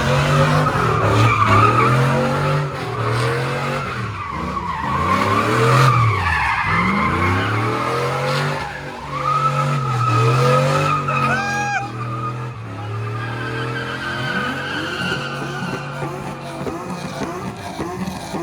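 BMW M4's twin-turbo inline-six revving up and down over and over while its rear tyres squeal continuously as the car spins donuts.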